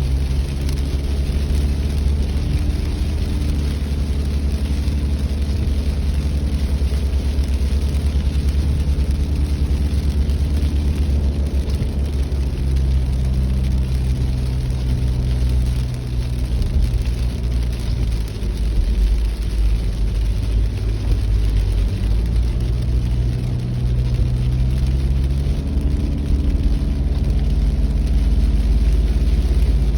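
A car driving: steady engine hum over a heavy low road rumble, the engine pitch drifting up and down a little as the speed changes.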